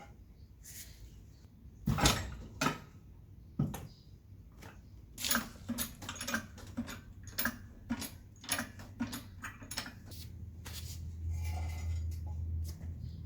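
A car jack being worked to lift the car: a few sharp metal clanks, then a run of even clicks at about three a second as the jack is pumped. A low hum comes in near the end.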